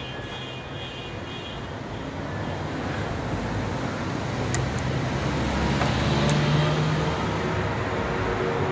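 Passing road traffic: a vehicle's engine and tyre noise swelling slowly to its loudest about two-thirds of the way through, then easing a little, with a few faint clicks.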